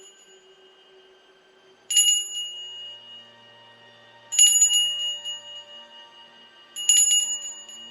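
A small bell rung three times, about two and a half seconds apart; each ring is a quick cluster of clapper strikes followed by a high ringing that fades.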